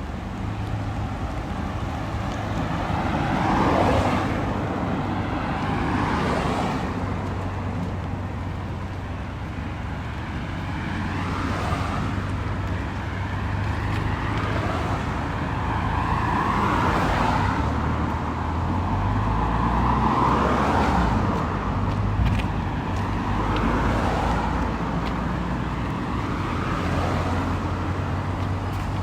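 Cars passing one after another on a wet road, each swelling and fading with a hiss of tyres, over a steady low traffic rumble.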